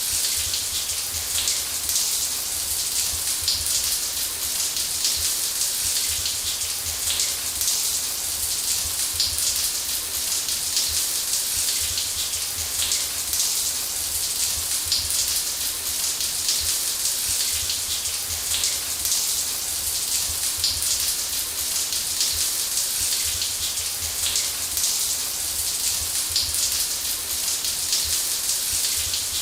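Shower running steadily, water spraying and spattering onto a hard surface with a constant bright hiss.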